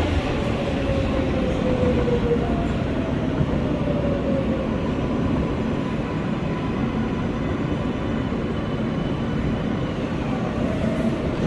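R143 subway train running, heard from inside the car: a steady rumble and wheel noise with a thin whine from the electric traction motors that falls in pitch twice in the first few seconds and again near the end, as the train slows.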